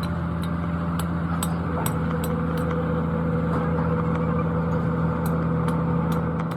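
An engine running steadily at an even speed, with a scatter of light sharp clicks over it, most of them in the first few seconds.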